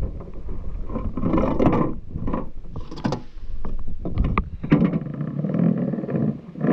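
Irregular knocks, clicks and rustling of handling on a kayak, with gear and the hull being bumped as things are moved about.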